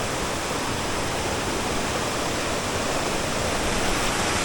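Steady rushing of water, a waterfall or stream, with no change in level.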